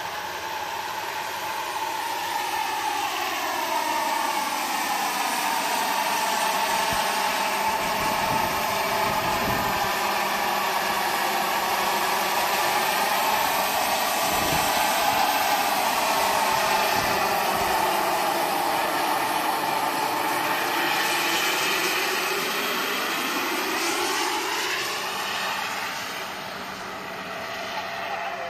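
Jet-turbine RC scale helicopter, an EC 145 Eurocopter model, in flight: a steady turbine whine with rotor noise. Its pitch waves slowly up and down as it moves about, swelling louder after the first few seconds and dropping back near the end.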